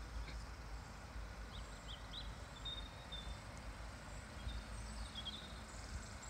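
Outdoor ambience: small birds chirping now and then, with a few short whistled notes, over a steady low rumble.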